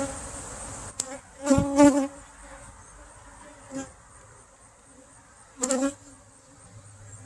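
Honey bees buzzing around an open hive: a steady hum, swelling louder as bees fly close about one and a half seconds in and again near six seconds.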